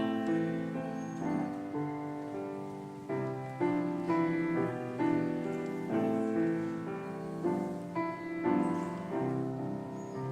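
Soft piano music with slow chords and melody notes, played as background.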